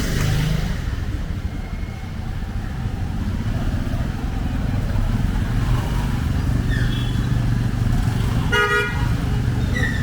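Street traffic with vehicle engines running close by, a steady low rumble, and one short vehicle horn toot near the end.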